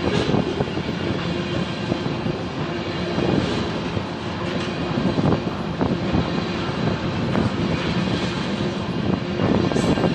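Freight cars of a BNSF manifest train rolling past close by: a steady wheel-on-rail rumble with irregular clanks and clacks.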